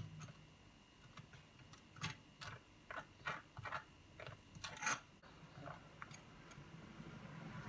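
A series of irregular light clicks and knocks, a few per second, loudest about two and five seconds in.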